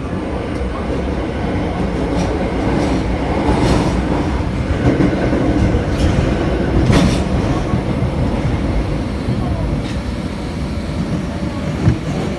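Running noise inside a Kita-Osaka Kyuko 8000 series subway car at steady speed: a continuous heavy rumble of wheels on rail, with a few sharp clacks from rail joints scattered through it.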